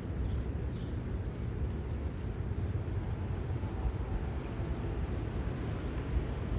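Wind buffeting the microphone, a steady low rumble. Over it, a small bird chirps repeatedly, about two short high chirps a second.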